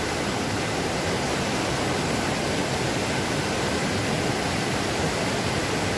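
Steady, even rush of a waterfall and mountain stream.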